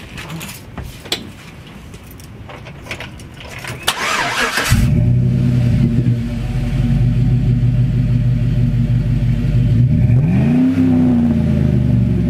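A 2008 Chevrolet Tahoe's 5.3-litre V8 being started with its exhaust resonator cut out: after a few scattered clicks the starter cranks briefly about four seconds in and the engine catches, then idles steadily out the tailpipe. About ten seconds in it gives one quick rev that rises and falls back to idle.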